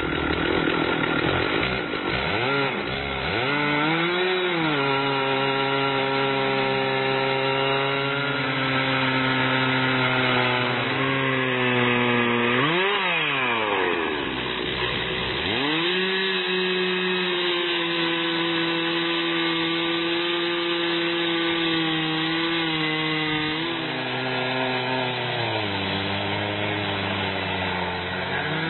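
Two-stroke chainsaw in an Alaskan-style small log mill, running at high revs as it rips lengthwise through a log. The engine speeds up at the start, its note drops and recovers twice (about 3 s and 13 s in), and it settles at a lower note under load near the end.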